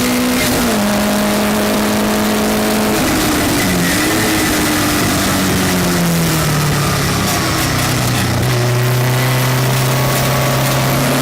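Westfield race car engine heard from on board at racing speed: its note holds high, then falls in steps over several seconds to a low pitch, and begins to rise again near the end, as when the car slows and gears down for a corner and then picks up again, with steady wind and road noise underneath.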